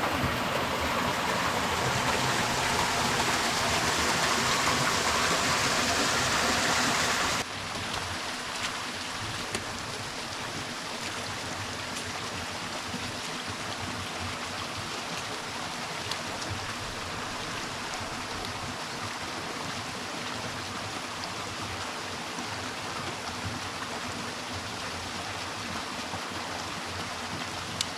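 Small woodland waterfall on a creek: a steady rush of splashing water. About seven seconds in it drops suddenly to a softer, even rush.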